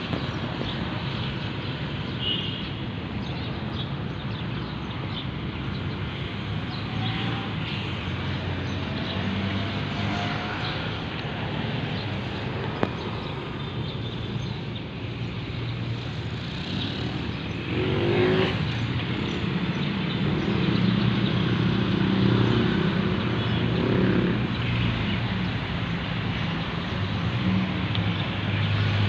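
A motor vehicle engine running under steady outdoor noise. There is a short rising whine about eighteen seconds in, after which the engine sound grows louder.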